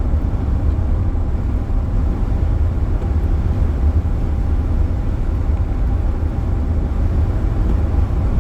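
Steady low rumble of road and wind noise from a car driving at speed, heard from inside the cabin.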